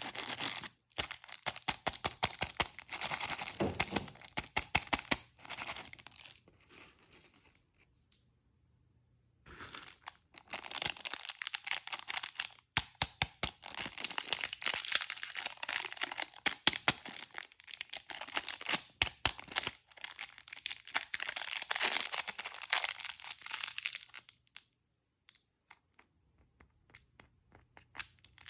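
Plastic candy wrappers crinkling and tearing as they are opened, in dense crackly rustles, with a pause of about two seconds a third of the way through.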